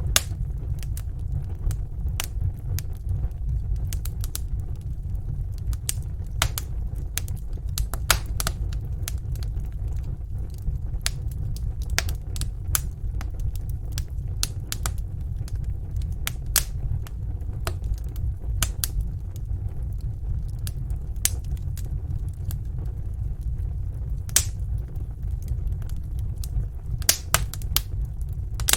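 Wood fire burning in a fireplace, with a steady low roar and irregular sharp crackles and pops from the burning logs.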